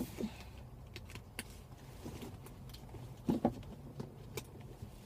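Faint scattered clicks and knocks of small objects being handled, the loudest pair about three seconds in, over a low steady hum.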